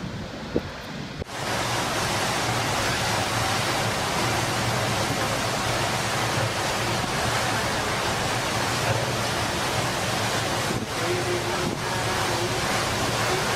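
Storm wind and heavy surf, a dense, steady roar that starts suddenly about a second in, with wind rumbling on the microphone.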